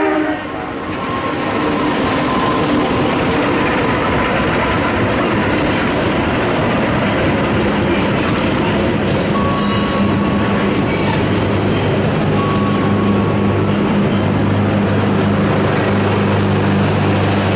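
Passenger train hauled by a CC201 diesel-electric locomotive running through the station: a horn note cuts off at the very start, then a steady rumble of coaches rolling past on the rails, with a low steady hum joining about seven seconds in.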